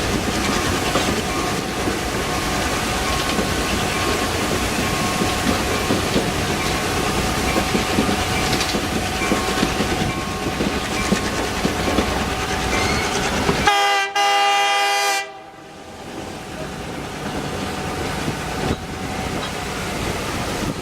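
Passenger train rolling along the rails with a continuous rumble and clatter. About two-thirds of the way through, the locomotive horn sounds once for about a second and a half, and the running noise is quieter for a few seconds after it.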